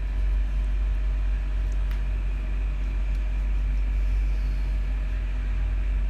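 Steady low electrical or mechanical hum, with faint steady tones above it, and a single faint tick about two seconds in.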